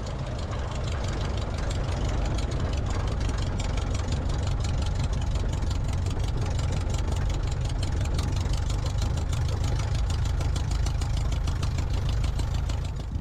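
Light aircraft piston engine and propeller running steadily at a constant power setting, most likely the 1941 Aeronca Super Chief in flight.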